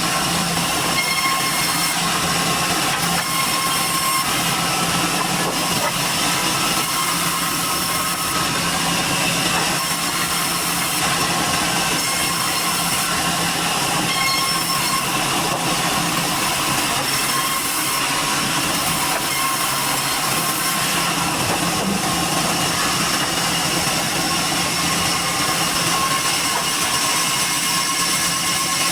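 Sawmill machinery running steadily: a constant loud mechanical noise with a steady hum and no breaks.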